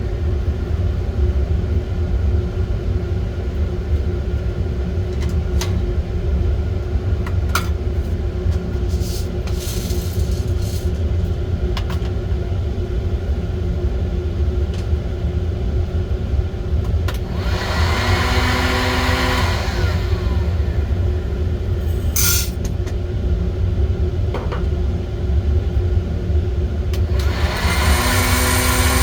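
Home coffee roasting setup running with a steady low rumble. Scattered sharp clicks come from the beans. Twice, about eighteen seconds in and again near the end, a louder hissing blast with a steady motor hum lasts a couple of seconds, as the heat is applied between stirring spells.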